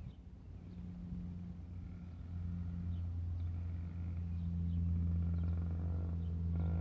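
Motorbike engine running steadily with a low hum that grows louder over the first few seconds; a higher engine note joins near the end.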